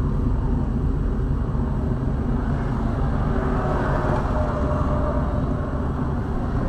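Steady rumble of a car being driven: engine and road noise, with a faint whine that comes in around the middle.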